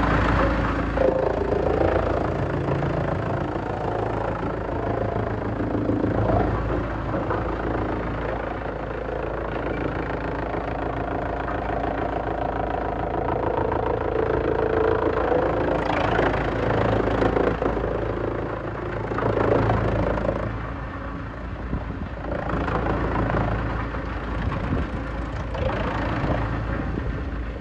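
A heavy-duty industrial wood shredder running steadily under engine power. Short louder noisy surges come several times, about a second in, near the middle and toward the end, as wood is chewed through.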